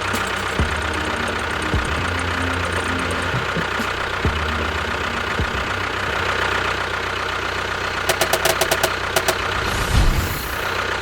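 A motor vehicle's engine running steadily with a low hum. About eight seconds in there is a quick run of clicks, and near the end a single thump.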